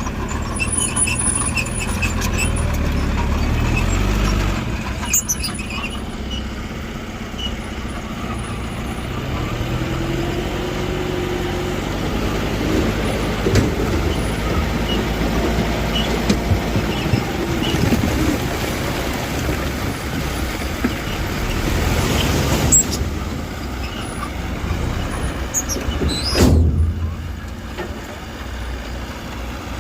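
Heavy diesel earthmoving machinery running, with the steady engine rumble of a bulldozer and dump trucks at work. A sharp burst of noise comes near the end.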